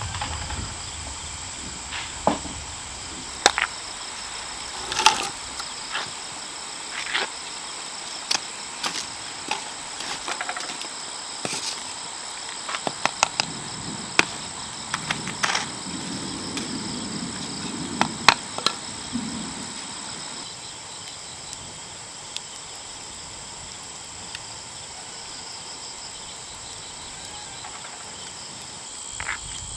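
Steady high-pitched insect chorus, with scattered sharp knocks and clatter during the first twenty seconds that then die away.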